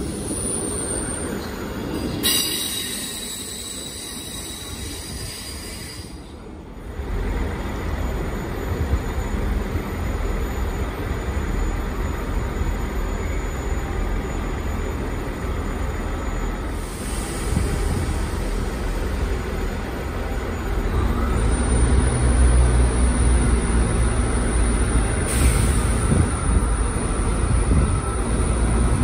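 Diesel multiple unit moving through the platform with its wheels squealing on the rails. After a cut, a steady low diesel engine rumble from units at the platform, growing louder about 22 seconds in as a Class 166 draws in on the next track.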